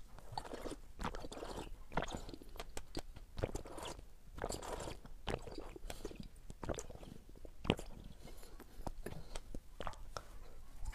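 Close-miked eating sounds: chewing and sipping from a glass, heard as irregular small clicks and crunches.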